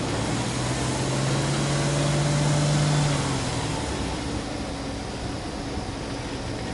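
Subaru Impreza hatchback 1.5i-S's 1.5-litre flat-four engine heard at the tailpipe, blipped up from idle and held for about three seconds, then dropping back to a steady idle.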